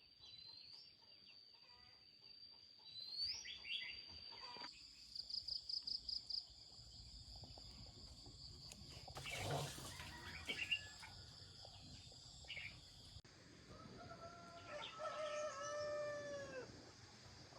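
Rooster crowing once, a long call falling in pitch about fourteen seconds in, with short bird chirps earlier and a steady high-pitched tone behind.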